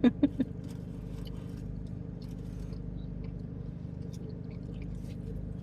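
Steady low hum of a car cabin with the engine idling. A few short sounds come right at the start, and faint scattered clicks and rustles from eating and food wrappers follow.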